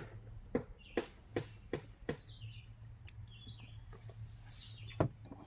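Sharp clicks and knocks of tools and mower parts being handled, several in the first two seconds and one more near the end, while birds chirp now and then in the background over a low steady hum.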